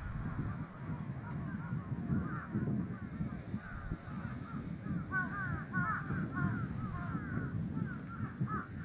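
Birds calling repeatedly in short, pitch-bending calls, thickest about five seconds in, over a steady low rumble.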